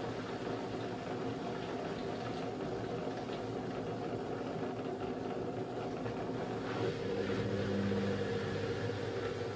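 Beko WMB 71643 PTE front-loading washing machine running mid-cycle: water sloshing in the drum. About seven seconds in, a steady motor hum comes in as the brushed motor turns the drum.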